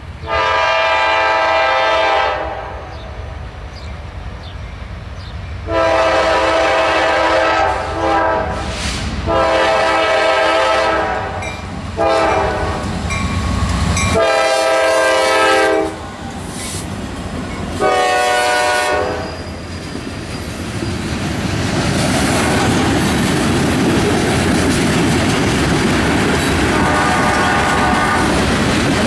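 Norfolk Southern diesel freight locomotive's multi-note air horn sounding a series of long and short blasts, the warning for a grade crossing, over a low engine rumble. From about two-thirds of the way in the train rolls past, and the steady rumble and clatter of freight car wheels on the rails takes over.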